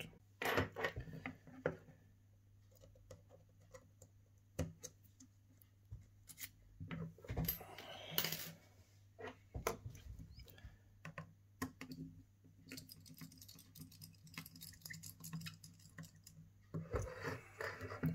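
Small tools clicking, tapping and scraping on the parts of an iPhone XR as it is taken apart to remove its logic board. There are scattered sharp clicks, a longer scrape about halfway through and a busier cluster of clicks near the end, over a faint steady low hum.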